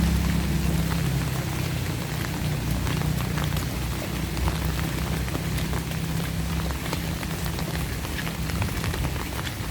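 Steady rain, with many separate drops ticking. A low rumble underneath is strongest at the start and dies down over the first seconds.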